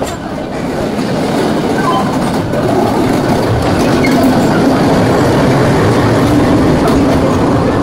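Suburban electric local train running over yard points, wheels clattering on the rails, while a locomotive passes close alongside on the next track. The low rumble grows louder a few seconds in as the locomotive draws level, then holds steady.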